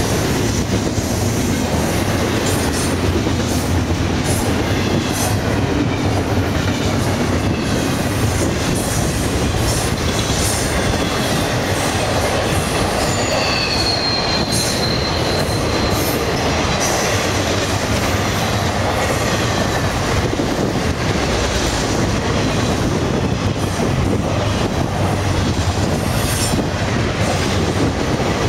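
Florida East Coast Railway intermodal freight cars, double-stack container cars and trailer flatcars, rolling steadily past: a loud continuous rumble of steel wheels on rail with repeated clacks. A brief high-pitched wheel squeal about halfway through.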